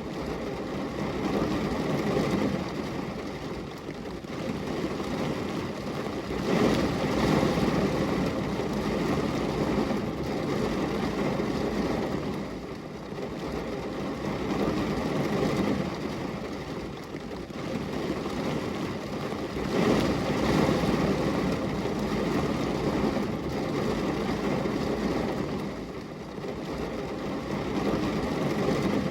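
Rain falling on a glass window: a dense, low rushing hiss that swells and eases every several seconds.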